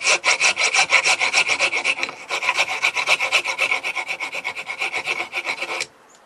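A hand file rasping across the edge of a natural stone tile in rapid, even back-and-forth strokes that stop abruptly near the end.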